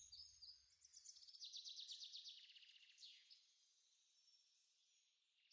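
Faint birdsong: a quick run of high chirps about a second and a half in, then a single falling whistle about three seconds in.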